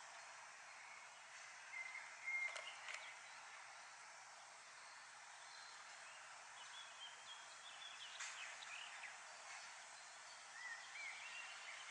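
Faint birdsong, with short chirps and whistles coming and going over a steady hiss. Two sharp clicks come close together about two and a half seconds in.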